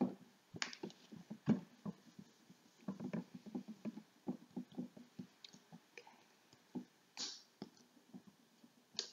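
An eraser wiping writing off a board: a run of short, irregular scuffing and rubbing strokes with a few light knocks, and one brief hissy swipe about seven seconds in.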